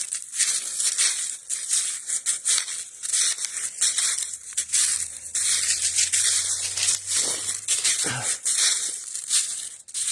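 Footsteps crunching and rustling over dry ground cover while walking uphill, a continuous irregular crackle with many small crunches.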